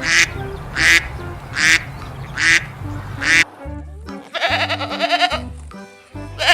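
A duck quacking: five short, loud quacks evenly spaced a little under a second apart, then a longer run of calls near the end, over background music with a steady bass line.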